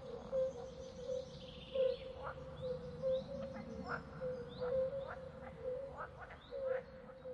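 Birds chirping: short chirps, a couple a second, over a low note that repeats steadily.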